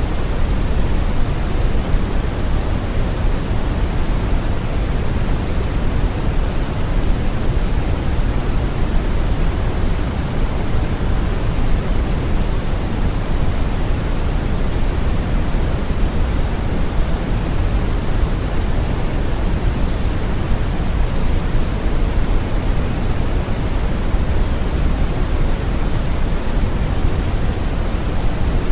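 Steady brown noise: a continuous, unchanging rumbling hiss weighted heavily toward the low end.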